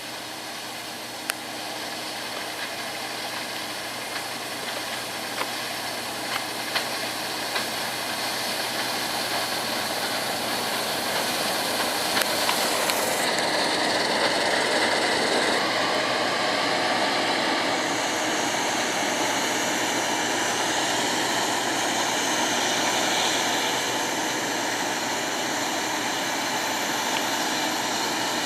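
Heavy farm harvest machinery running steadily, growing louder over the first half and then holding, with a few faint clicks in the first seconds.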